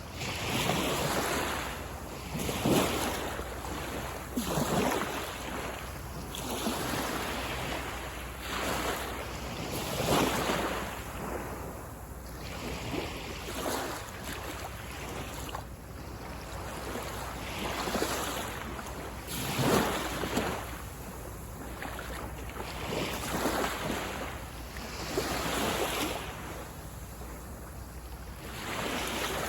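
Small waves breaking and washing on a sandy beach, one after another every two to three seconds, with a light rumble of wind on the microphone underneath.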